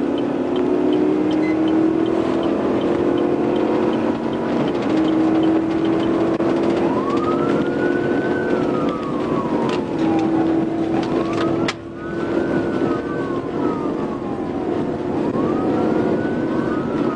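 Police patrol car in a high-speed pursuit: a steady engine and road drone, with a wailing siren rising and falling in slow sweeps from about seven seconds in. A sharp click about twelve seconds in.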